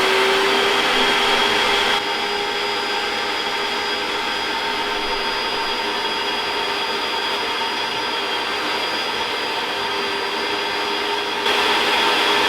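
Wet vacuum cleaner running steadily with a constant motor whine while sucking up flood water from the floor. About two seconds in its sound dulls and drops a little, then comes back near the end.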